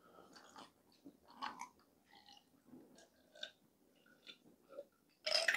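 A person chewing deep-fried crispy pata close to the microphone: soft, irregular chewing and biting sounds, with a short louder burst near the end.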